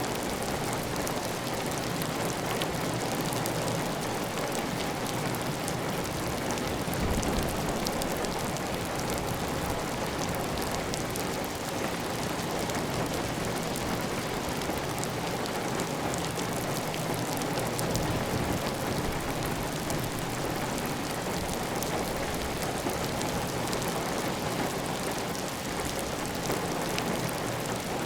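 Heavy, steady rain falling on a clay tile roof, with water running off the roof edge: a dense, even hiss of drops with fine ticks up high.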